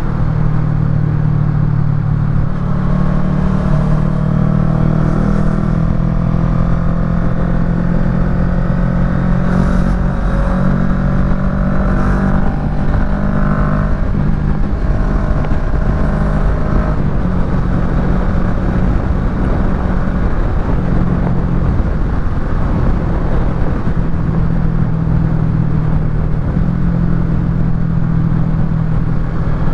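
Kawasaki Ninja 650 parallel-twin running through a Yoshimura Alpha full exhaust while being ridden: a steady, loud low engine note, with a higher whine rising slowly through the first half and ending a little past the middle.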